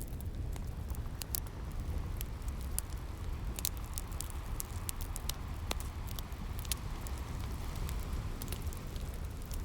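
Wood fire crackling, with irregular sharp pops and snaps, over a steady low wash of ocean waves.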